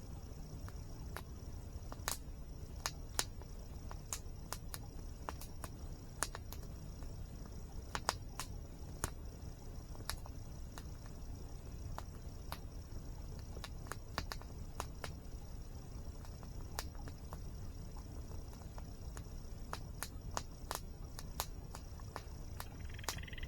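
Wood campfire crackling, with irregular sharp pops and snaps, over a steady low rush of waterfall water and a constant high insect trill. A brief chirp near the end.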